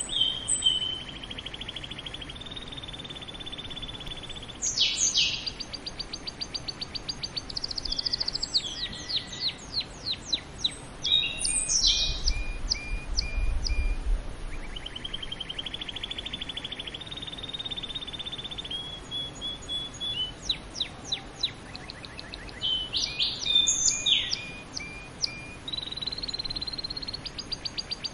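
Domestic canary singing a long song made of fast trills, each a quick run of one repeated note, switching from one trill to the next at higher and lower pitches, with a few sharp sweeping notes between them.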